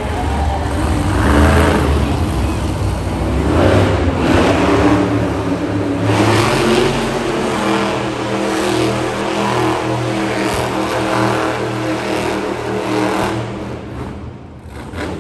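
Monster truck engine revving hard, its pitch shifting up and down, then holding a steadier run before the sound dies away near the end.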